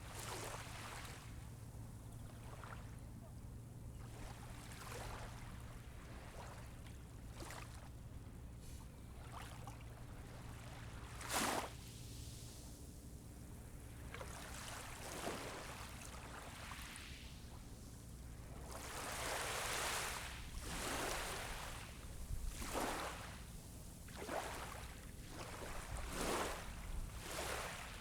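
Small waves washing onto the beach, each wash swelling and fading every second or few, with a sharper splash about eleven seconds in, over a steady low hum.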